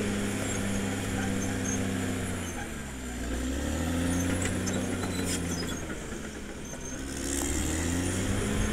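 Caterpillar D6R XL bulldozer's diesel engine working. Its pitch dips about three seconds in and again around six seconds, climbing back each time, with light metallic clinks over it.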